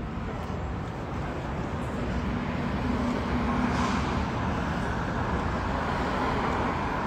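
Steady vehicle noise, a low rumble and hiss that grows louder about two seconds in and then holds.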